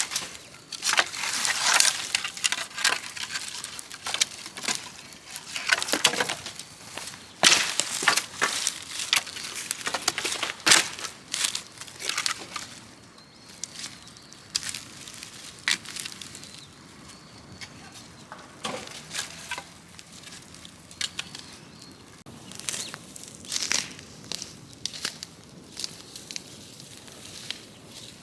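Dry branches and leaves crackling and crunching in irregular sharp snaps, busiest and loudest in the first half, then sparser and quieter.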